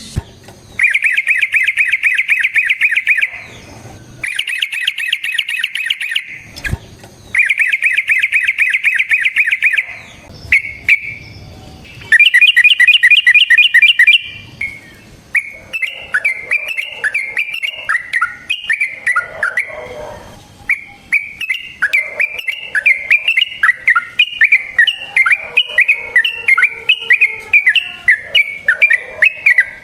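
Yellow-vented bulbul (trucukan) singing: several loud, rapid trills of two to three seconds each, then, from about halfway, an unbroken run of quick, varied notes. It is a loud rolling song of the kind used to call out a rival bulbul.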